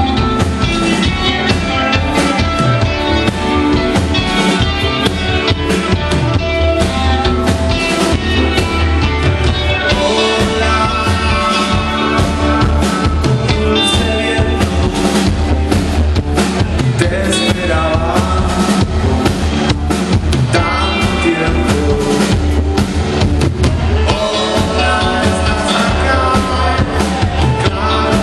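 Rock band playing live: full drum kit with a steady beat under bass and guitars, with some singing.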